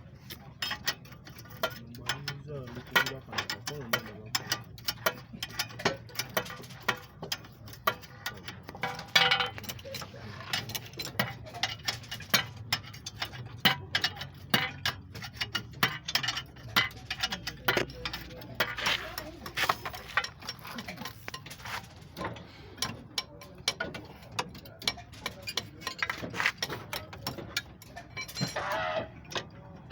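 Hand tools working on metal car suspension parts: a run of irregular metallic clicks and clinks, with ratchet-like clicking as parts are fitted and bolted up.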